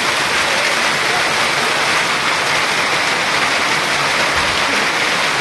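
Heavy downpour mixed with hail: a loud, steady hiss of rain and hailstones striking the ground.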